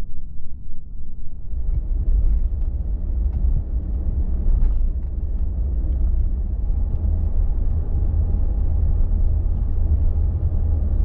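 A four-wheel drive on the move: a steady low rumble of engine and road noise, with rougher tyre noise joining about two seconds in.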